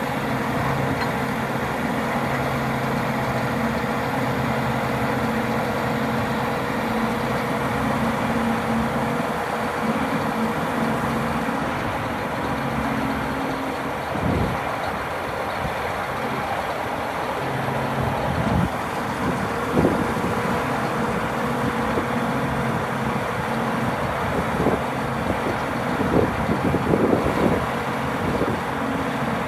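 Scania R480 truck's inline-six diesel engine running steadily, with a thin steady whine over it. A few short knocks and clatters come in the second half.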